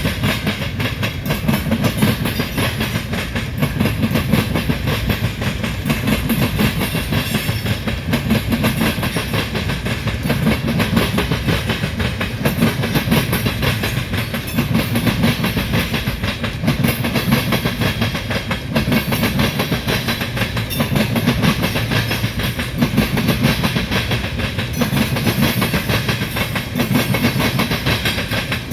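A Canadian National freight train of tank cars rolling past with a steady rumble, its wheels clicking over the rail joints.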